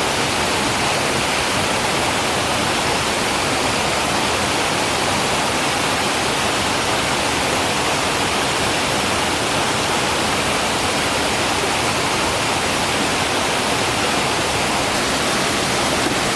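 Steady rushing water of a waterfall, an even unbroken sound with nothing standing out above it.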